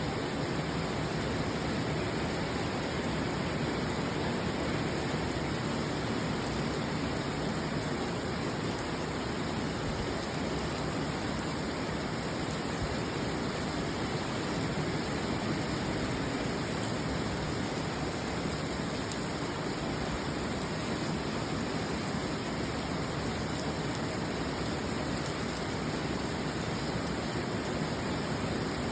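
Heavy rain falling, a steady even hiss of water.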